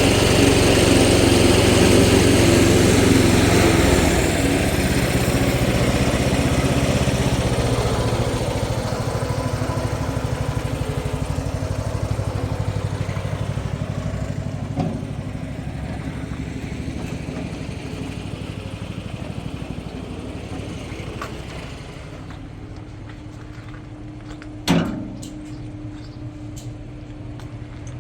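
A small engine running steadily, growing fainter over about twenty seconds until it is barely there, with a single sharp knock near the end.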